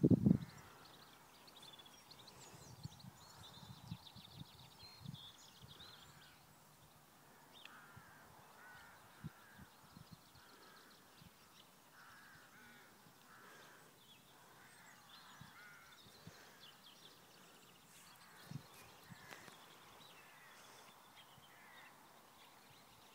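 Birds calling in the background: a run of higher chirps early on, then repeated short calls through the middle. A short burst of low thuds comes right at the start, and a few single faint thuds follow later.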